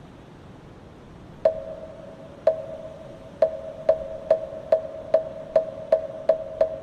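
Moktak, the Korean Buddhist wooden fish, struck with its mallet: a couple of slow strikes beginning about a second and a half in, then quickening to about two and a half strikes a second, each giving a short pitched ring. Steady wind noise runs beneath.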